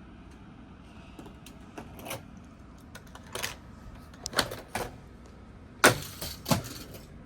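Die-cast toy cars clattering on a toy race track: a scattered run of sharp clicks and rattles, the loudest about six seconds in.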